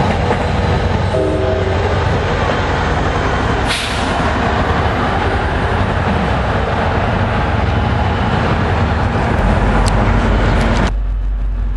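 Commuter train passing close by, with a loud, steady rumble of wheels on rail. A brief tonal note sounds about a second in, and the noise cuts off sharply near the end, leaving a low hum.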